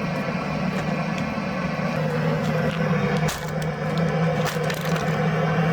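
Dry firewood being split: several sharp chopping strikes with the wood cracking and splintering. A steady low hum runs underneath.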